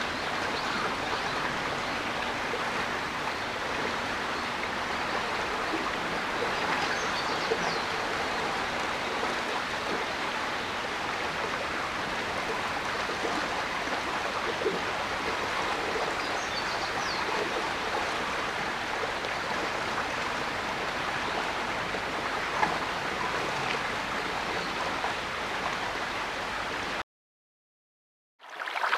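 Running water of a stream, a steady even rush, cutting to about a second of silence near the end.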